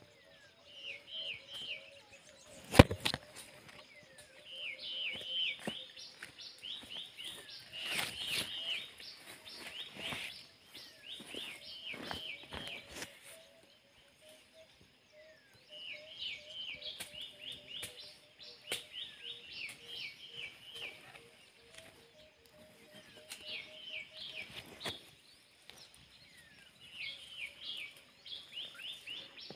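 A bird singing: quick chirping phrases repeated in runs of a few seconds, with short pauses between the runs. Sharp knocks and rustles of handling come in between, the loudest about three seconds in.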